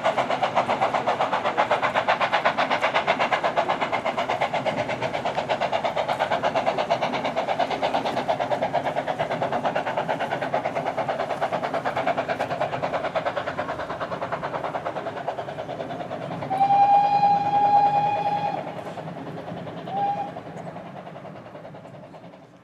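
Steam train running at speed with a fast rhythmic clatter that slowly fades, then one long whistle blast about two-thirds of the way in and a short toot a couple of seconds later.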